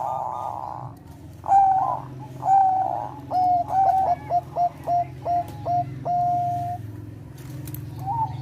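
Zebra dove of the Thai 'Bangkok' song line cooing: long held notes, then a quick run of short staccato coos, then another long note.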